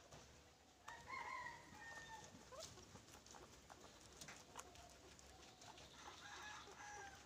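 Two faint, drawn-out animal calls, each lasting about a second, one about a second in and another near the end, with scattered light clicks and taps between them.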